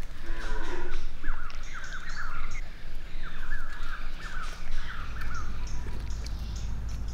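Birds calling: a call falling in pitch near the start, then runs of short warbling calls, over a steady low rumble.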